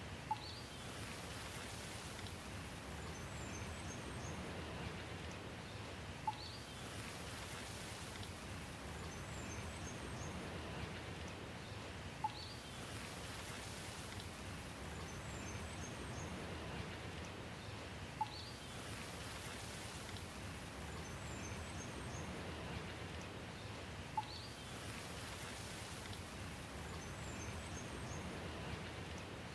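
Steady rain with faint, high bird chirps, repeating as a loop about every six seconds. Each pass carries one sharp tick, the loudest sound, about six times in all.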